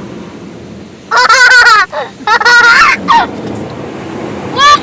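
Children squealing loudly and excitedly: two long, high, wavering shrieks and a short one about a second in, then a brief rising squeal near the end. Under them runs the steady wash of an automatic car wash heard from inside the car.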